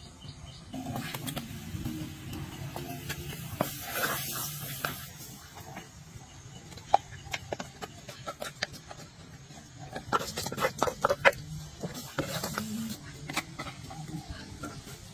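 Cooking handling sounds: scattered knocks and clicks of utensils and food being worked, with a short hissing splash about four seconds in and a quick run of clicks around ten seconds in.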